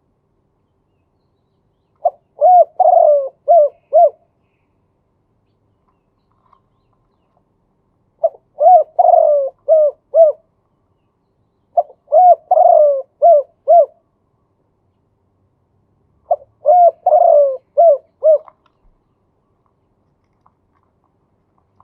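Male spotted dove cooing: four separate phrases of several notes each, a few seconds apart.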